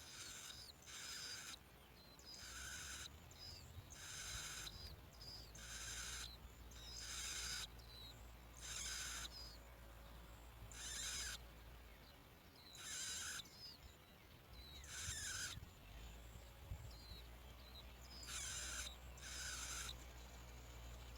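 Harsh, hissing bird calls, mostly in pairs about every two seconds, with short thin chirps between them and a low steady rumble underneath.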